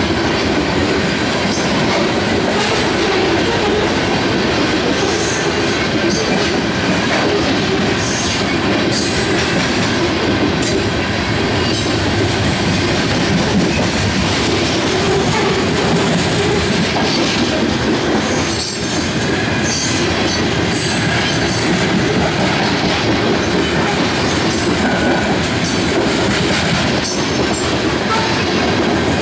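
Covered hopper cars of a freight train rolling steadily past at close range: a continuous rumble of steel wheels on rail, with irregular clicks as the wheels cross rail joints.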